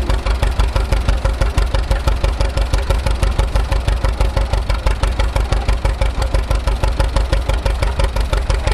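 Antique farm tractor engine idling with a steady, rapid, even beat.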